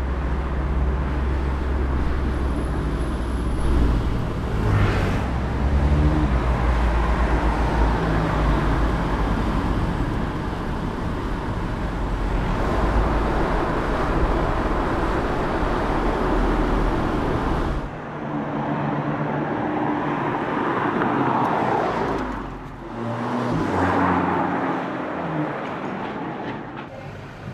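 Audi S3 sedan's turbocharged four-cylinder engine pulling on the road, its pitch rising and dropping with the throttle and gear changes over a deep rumble. About eighteen seconds in the deep rumble cuts out and the car is heard swelling past twice.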